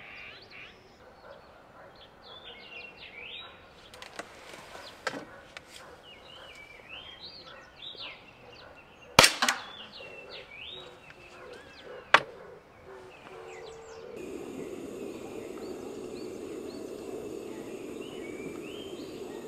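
Small birds chirping repeatedly, broken by a few sharp clicks or knocks, the loudest about halfway in. About two-thirds of the way in, a steady low rushing noise starts and continues under the chirps.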